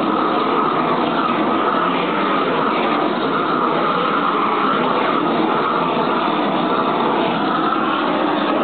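Steady, loud, jet-like rushing of the heater used to heat a length of PVC pipe until it is pliable enough to bend.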